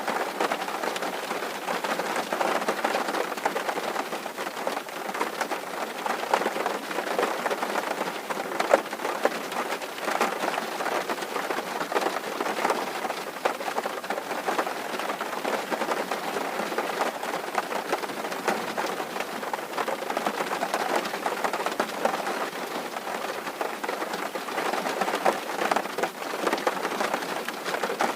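Steady rain drumming on a tin roof: a dense patter of countless drops hitting thin sheet metal.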